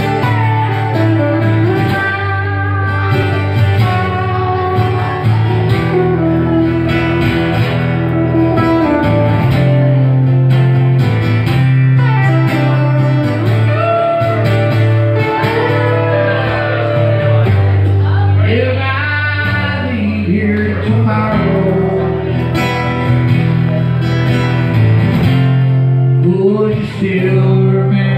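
Live rock band playing a slow guitar-led piece: electric guitar lines that slide up and down in pitch over steady held bass notes.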